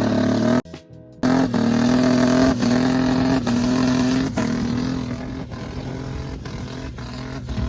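Turbocharged Dodge Dakota engine held at high, steady revs, with the whole sound dropping out briefly about half a second in. Music with a regular beat plays along.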